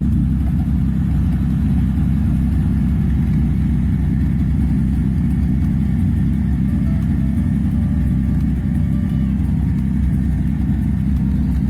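A car engine running steadily with an even, low sound throughout.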